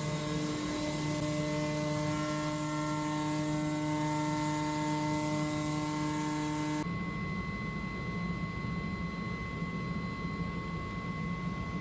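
Comagrav Digi Corsa CNC flatbed cutter running: its pneumatic oscillating tool buzzes with a hiss of air, then stops abruptly about seven seconds in. The machine's steady hum and high whine continue.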